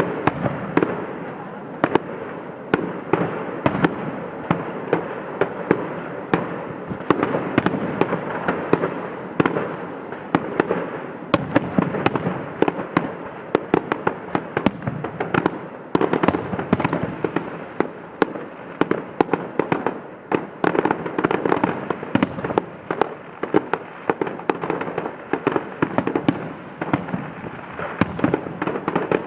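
Fireworks display: many sharp bangs and pops, several a second, one after another without a break, over a continuous noisy background of overlapping explosions.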